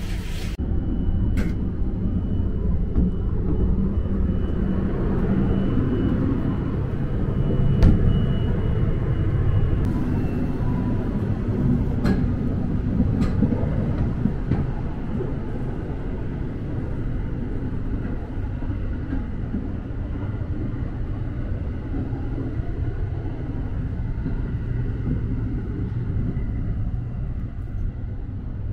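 Sunrise Express sleeper train (a 285 series electric train) running, heard from inside the car: a steady low rumble of the running gear and carriage, with a few sharp clicks and knocks in the first half.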